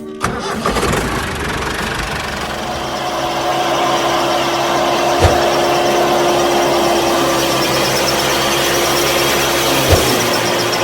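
Small motor running steadily with a constant whine, with two brief knocks about five seconds apart.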